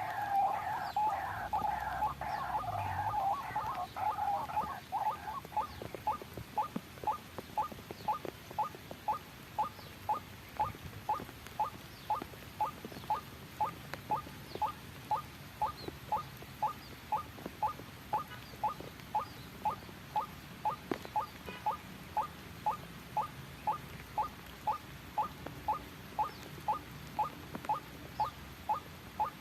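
White-breasted waterhen calling: a dense run of harsh chattering calls for the first few seconds, then a monotonous series of short, clipped notes repeated about twice a second.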